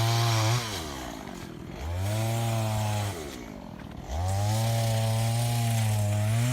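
Chainsaw held at full throttle in three bursts, dropping back toward idle between them, as it cuts through a tree trunk.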